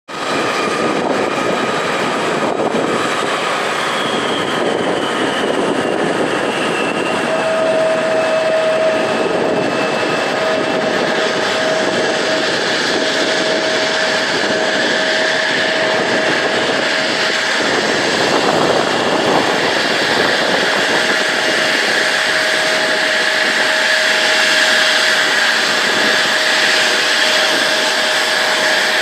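Jet engines of an arriving regional airliner taxiing to the gate: a steady roar with whining tones, one of which falls slightly in pitch a few seconds in.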